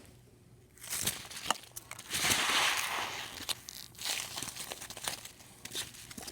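Packing peanuts being handled and crushed, crinkling and crackling, with the densest, loudest crunching about two to three seconds in and scattered crackles around it.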